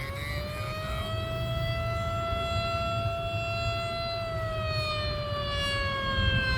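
Outdoor tsunami warning siren sounding one slow wail: it rises for about a second and a half, holds steady, then falls slowly from about four seconds in. A steady low rumble runs underneath.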